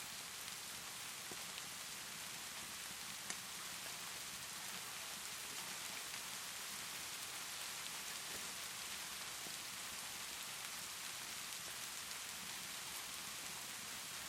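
Steady rainfall hiss with no wind or thunder, dotted with a few faint sharp pops of a crackling fire; the clearest pop comes about three seconds in.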